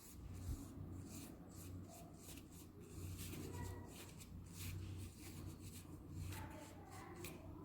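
Paintbrush strokes on paper: faint, soft brushing and scratching repeated many times, over a low steady hum.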